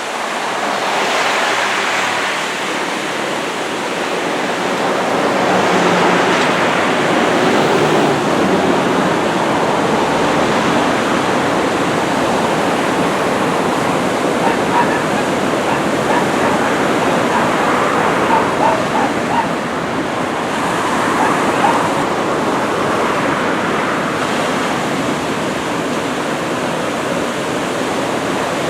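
Ocean surf breaking on the shore, a continuous wash of waves that swells and eases every few seconds, from a typhoon swell.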